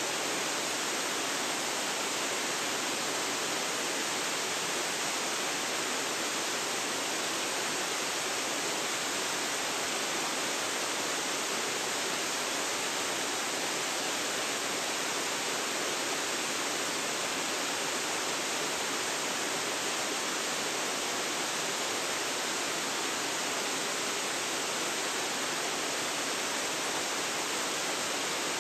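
Waterfall's steady rush of falling water, an even hiss with no breaks or changes.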